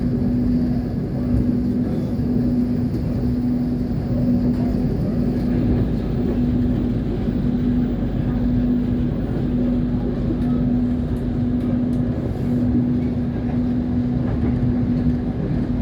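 Passenger train running, a steady low rumble with a low hum that pulses at an even rate of roughly once a second.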